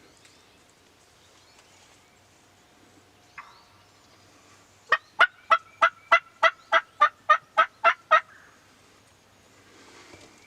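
A run of about a dozen loud turkey yelps, three or four a second, lasting about three seconds.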